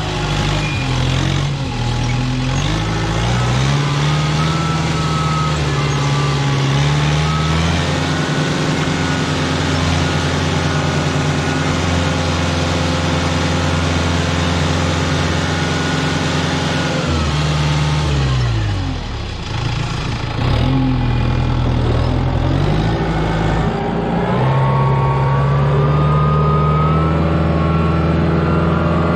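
Kubota tractor's diesel engine running under load while clearing snow. The revs dip briefly near the start, hold steady, drop off for a few seconds past the middle, then climb back up and hold.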